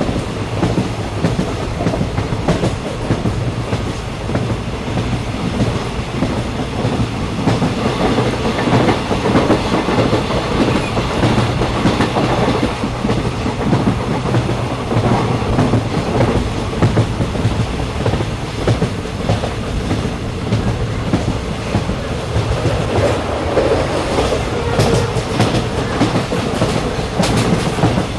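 A passenger train running along the track, heard from on board: a steady rumble of wheels on rail with a dense clatter of the running gear throughout.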